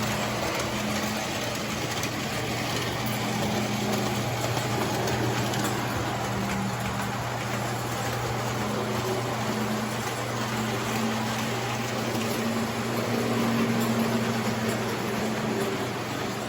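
Standard gauge electric toy train running on its track: a steady motor hum that swells and eases slightly, over a continuous rumble of wheels on rail.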